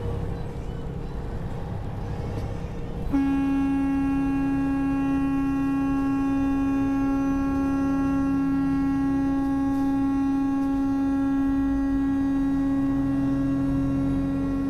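Vehicle and road rumble, then about three seconds in a vehicle horn starts and is held on one steady note for about eleven seconds.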